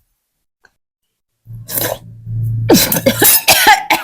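A person coughing several times in quick succession, starting about halfway in after a breath.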